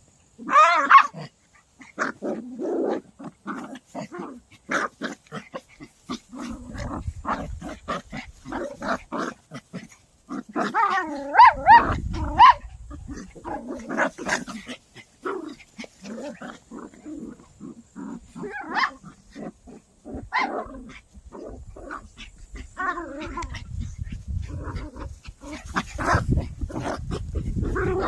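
Toy poodles at play, giving short high, wavering yelps and growls among scuffling clicks; the loudest yelps come about a second in and again about eleven to twelve seconds in.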